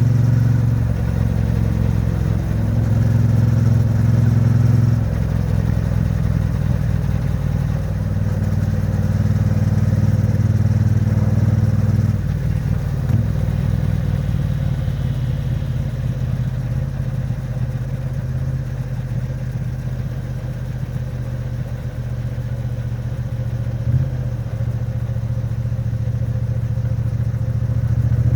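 Triumph Bonneville T100's 900 cc parallel-twin engine and exhaust at expressway speed, a steady low note that shifts a few times with the throttle. The engine is in the later part of its break-in and is held at modest revs. A short knock sounds once near the end.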